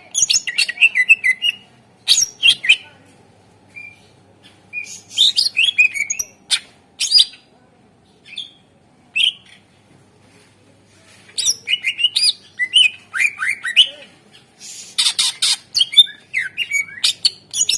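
Green leafbird (cucak ijo) singing in bursts of quick, slurred chirps and whistled glides, separated by short pauses, with a harsher, scratchier burst about three-quarters of the way through.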